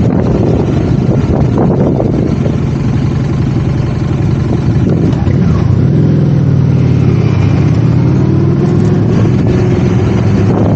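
Motorcycle engine running under way, with wind on the microphone. Its note sags a few seconds in, then climbs steadily over the second half as the bike accelerates.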